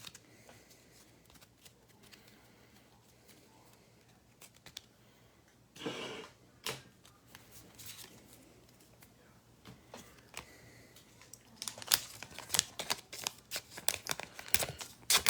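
Trading cards and plastic packaging being handled: quiet for most of the stretch, then a quick run of sharp crinkles and clicks in the last few seconds.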